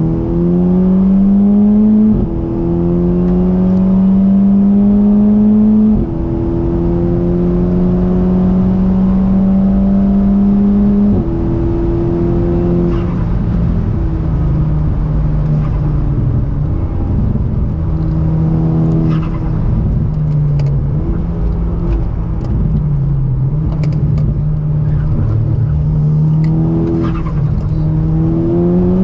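Volkswagen Golf R (Mk6) turbocharged four-cylinder engine accelerating hard through the gears. The pitch climbs steadily, with upshifts about 2 and 6 seconds in. From about 11 seconds in the engine runs lower and the pitch wavers up and down under changing throttle.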